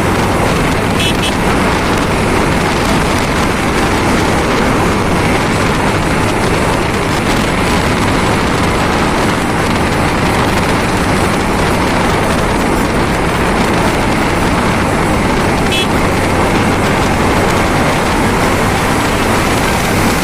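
Steady wind and road noise from a moving motorcycle, with a loud rush of wind over the microphone.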